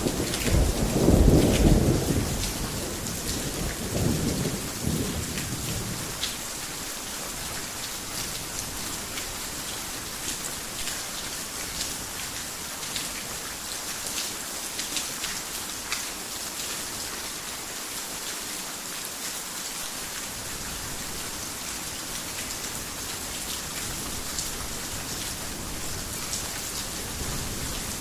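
Heavy rain falling steadily with scattered drop ticks, and a low rumble of thunder in the first few seconds that dies away by about six seconds in.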